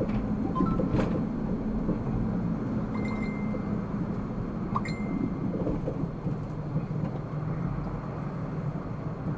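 Car cabin noise while driving: a steady low engine and road rumble, with a few faint clicks and two short high beeps about three and five seconds in.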